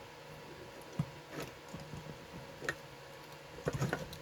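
Scattered clicks and light taps of a small flathead screwdriver prying at the plastic and metal parts of a Dyson battery pack: a few single clicks, then a quick cluster near the end.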